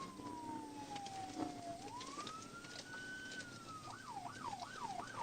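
Police patrol car's electronic siren, a slow wail falling and then rising, switching about four seconds in to a fast yelp.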